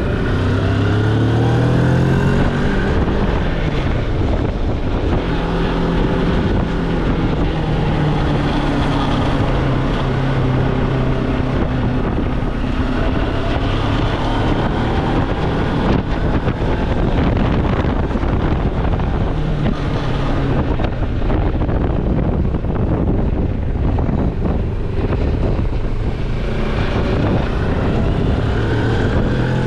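Moto Morini X-Cape's parallel-twin engine under way. It rises in pitch over the first couple of seconds, then holds a fairly steady note with small changes in speed, and climbs again near the end. Wind rushes over the microphone throughout.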